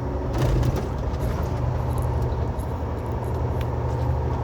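Semi truck's diesel engine running steadily under way, heard from inside the cab along with road noise, with a brief louder rush of noise about half a second in.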